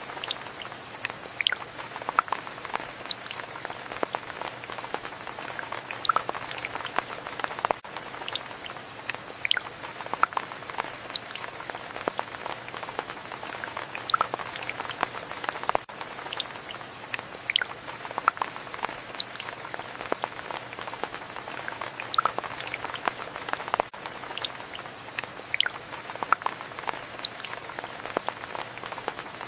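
Rain falling, with many separate drops pattering and dripping close by over a steady hiss. A faint high tone slides down in pitch and comes back about every eight seconds.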